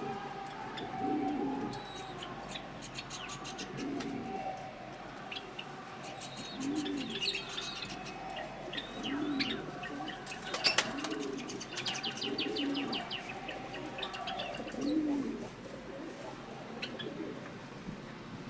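Pigeons cooing over and over, a low rounded coo every couple of seconds, with small birds chirping in short high notes over them. A single sharp click stands out about halfway through.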